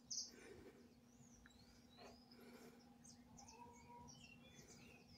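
Near silence, with faint scattered chirps of small birds and a faint low steady hum underneath.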